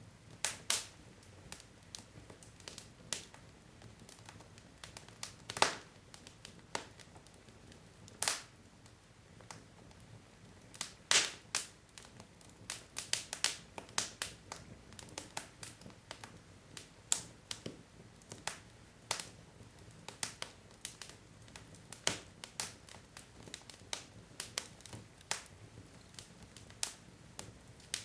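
Wood logs burning in a fireplace, crackling with irregular snaps and pops over a faint hiss. A few pops stand out louder, around six, eight and eleven seconds in.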